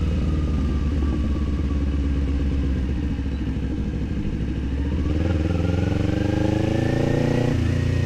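Kawasaki Z400 parallel-twin motorcycle engine and exhaust under way. The engine eases off for a couple of seconds and then pulls up steadily in revs from about halfway through, with a brief dip in revs near the end.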